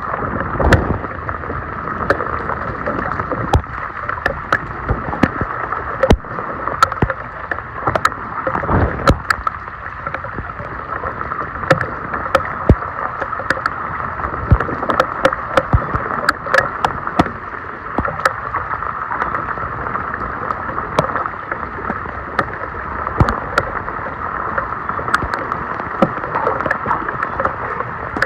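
Floodwater rushing and gurgling into a street storm drain, a steady rush broken by frequent sharp splashes and knocks.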